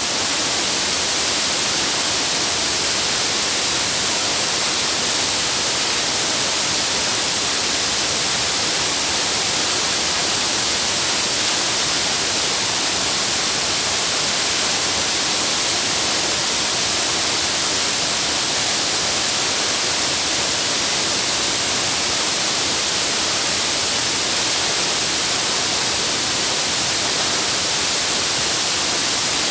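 Waterfall: the loud, steady rush of falling water, even and unbroken throughout.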